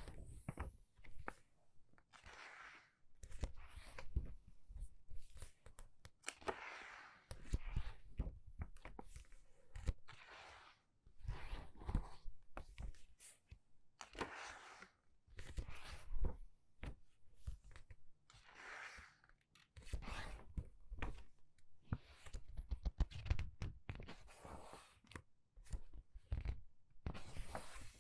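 Pages of a book being turned quickly by hand, one every second or two: each turn a papery swish, often with a soft thump as the page lands.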